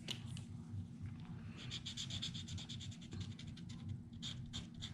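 Quick back-and-forth rubbing strokes on paper, about eight to ten a second, starting about a second and a half in, over a steady low hum.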